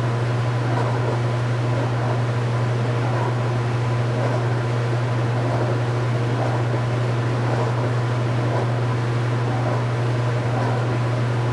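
2015 Speed Queen 8 Series top-load washing machine running, with a steady low hum and an even rushing noise above it.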